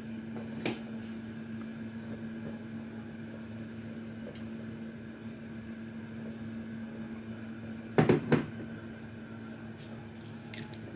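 A steady mechanical hum with one constant tone throughout, with a short knock under a second in and a loud clatter of two or three knocks about eight seconds in.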